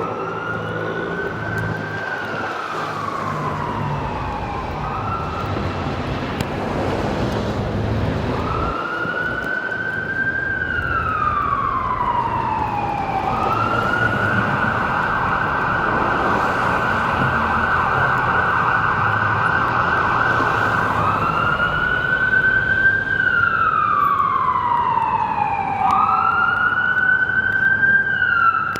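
Emergency vehicle siren on a city street, sounding a slow wail that rises and falls every few seconds, switching to a rapid yelp for several seconds midway and then back to the wail, growing gradually louder. Traffic rumble runs underneath.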